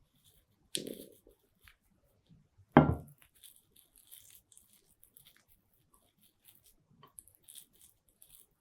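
Sparse food-preparation handling sounds: a short tearing sound about a second in, a sharp thump at about three seconds that is the loudest event, then faint small clicks.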